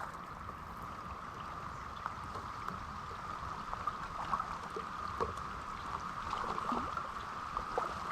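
Steady hiss of rain falling, with scattered light taps of drops.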